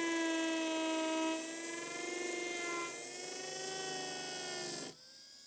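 Implant surgical motor spinning a 3.6 mm guided drill in a contra-angle handpiece: a steady high whine that drops slightly in pitch twice, then stops about five seconds in.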